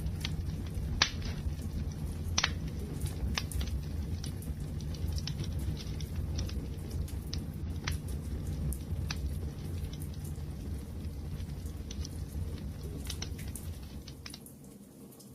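Wood fire burning with a steady low rumble of flames and irregular sharp crackles and pops from the burning logs. It dips quieter for about a second near the end before coming back up.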